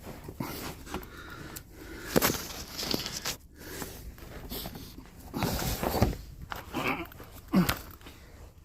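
Scattered knocks, clicks and rustling of hands handling metal engine timing tools and setting them in place, with a louder stretch of clatter a little past the middle.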